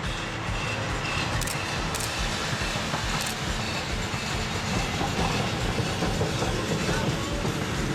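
Heritage steam-hauled train running along the track: a steady rumble of the wheels, with the clickety-clack of wheels passing over rail joints and a few brief sharp clicks in the first half.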